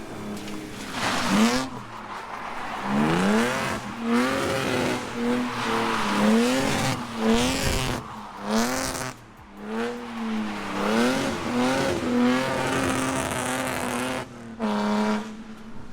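Drift car engine revving up and down again and again as the driver works the throttle, with repeated bursts of tire squeal as the car slides.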